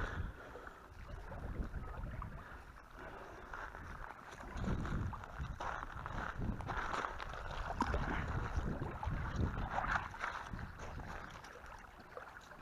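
Wind buffeting the microphone in uneven gusts, over a steady hiss.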